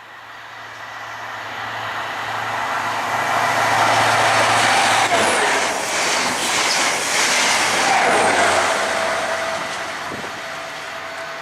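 ScotRail HST with Class 43 diesel power cars passing through the station non-stop: the engine hum and rail noise build as it approaches, wheels click over the rail joints at its loudest in the middle, then the sound eases off as it goes away.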